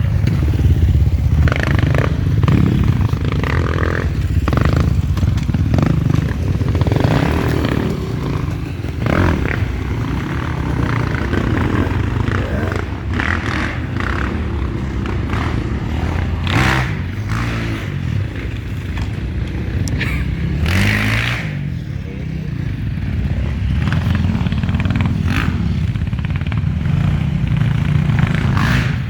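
Enduro motorcycle engine running at low to middling revs, its pitch rising and falling with the throttle, with scattered knocks and clatter.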